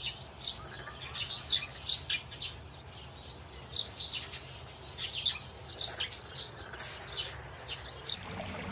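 Birds chirping, many short high calls in quick clusters.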